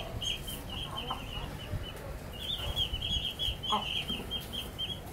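Bird calls: a steady run of quick high chirps, about five a second, with a short lower call about four seconds in.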